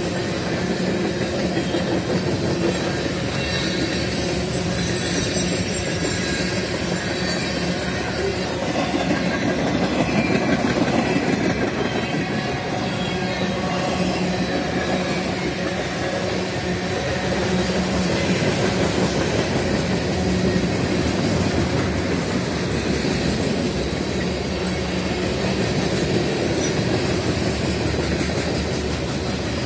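Freight train of boxcars and covered hopper cars rolling past close by: the steady, continuous noise of steel wheels running on the rails, swelling slightly at times as the cars go by.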